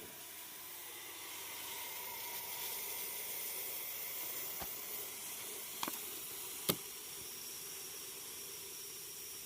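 Steady hiss, with a few short sharp clicks about halfway through.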